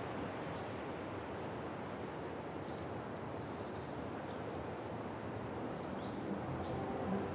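Steady outdoor ambience, a soft even wash of noise, with small birds giving short high chirps every second or so. Music fades in near the end.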